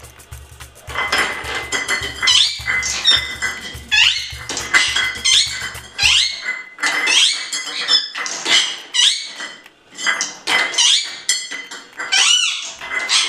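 Pet parrot giving a rapid series of shrill squawks, each bending up and down in pitch, about two a second, starting about a second in. Light clinks of the small bowl it is playing with sound among the calls.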